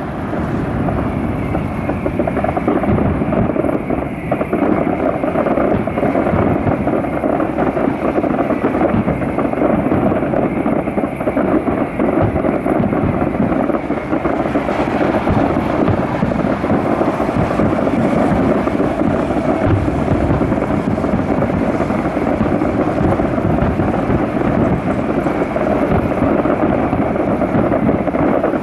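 Distant grand-finale fireworks barrage: many overlapping shell bursts blend into a continuous rolling rumble, like thunder, with no break.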